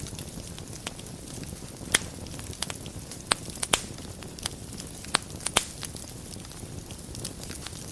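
Wood fire burning in a fireplace: a steady low rumble of flames with irregular sharp pops and crackles, the loudest about two seconds in and a cluster between three and four seconds.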